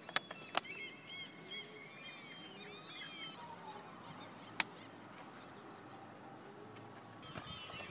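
Birds chirping in quick runs of short high calls that rise and fall, with two sharp clicks, one just after the start and one a little past halfway.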